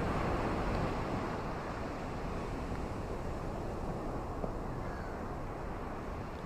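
Ocean surf on a beach: a steady rushing wash of waves, a little louder in the first second and then easing off.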